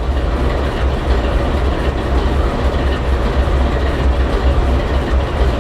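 Train running: a steady, heavy low rumble with rail noise over it, cutting off abruptly at the end.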